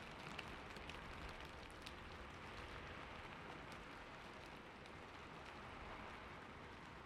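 Faint, steady splashing of falling water, with a few small drip ticks in the first two seconds.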